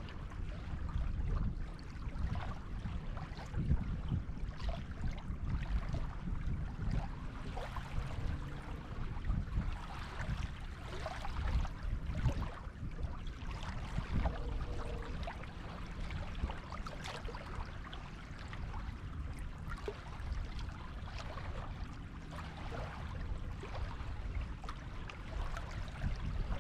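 Small waves washing and fizzing on a beach, over a steady low rumble.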